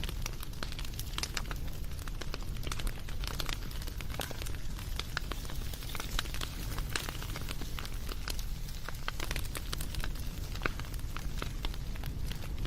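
Wood fire crackling: many irregular pops and snaps over a steady low rumble of burning.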